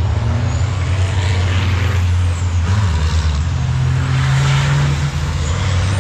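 Heavy racing truck's diesel engine running loud and steady, its note stepping up about halfway through. About three short bursts of hiss cut over it.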